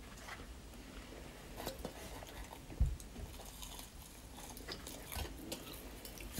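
Faint sounds of a person biting into and chewing food, with small mouth clicks and crackles. A single dull thump comes about three seconds in.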